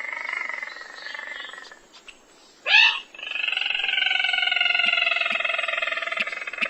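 Rail and crake calls played as a bird-hunting lure: a long drawn-out call with several overtones that fades out, a short loud upward-sweeping note near the middle, then a second long call of about three seconds that slowly falls in pitch.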